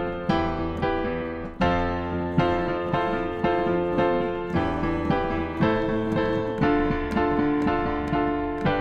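Piano playing an instrumental passage of a pop song without singing: chords struck in a steady rhythm, changing about once a second.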